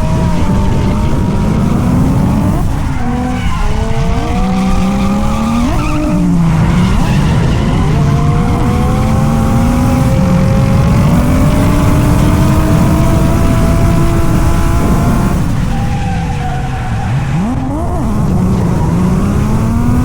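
A drift car's engine at high revs, its pitch climbing and falling as the throttle is worked, with several sudden drops and quick re-climbs. Under it is a steady hiss of tyres skidding.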